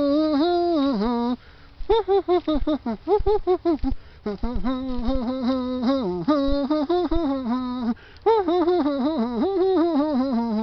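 A person's voice making wordless sing-song syllables, the pitch wobbling up and down in short runs, broken by a few brief pauses.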